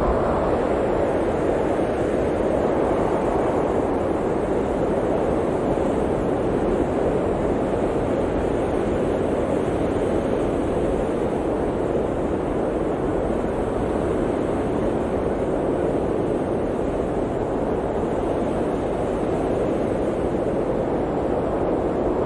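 Blizzard wind blowing in a steady rushing noise that swells and eases slightly.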